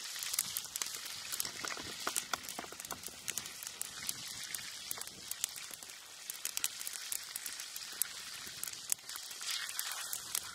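Burger patties sizzling in hot grease in a cast iron frying pan over an open fire: a steady hiss with dense small crackles and pops of spattering fat.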